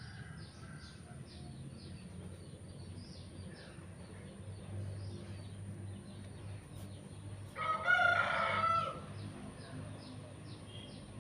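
A rooster crows once, about eight seconds in, for about a second and a half. Behind it runs a steady series of short high chirps, about three a second.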